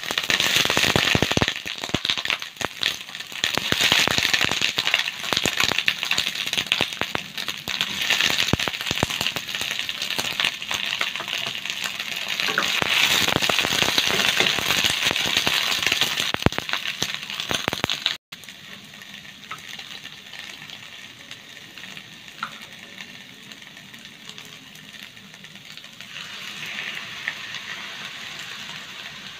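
Garlic and bok choy sizzling in hot oil in a non-stick wok, stirred with a wooden spatula that clacks and scrapes against the pan. About 18 seconds in, the sound cuts to a quieter steady sizzle, which rises again near the end as beaten egg is poured into the wok.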